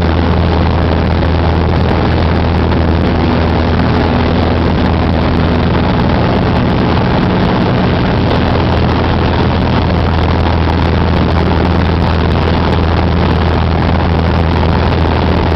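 Cessna 188 AgTruck's piston engine and propeller running in a steady, loud drone that holds level throughout.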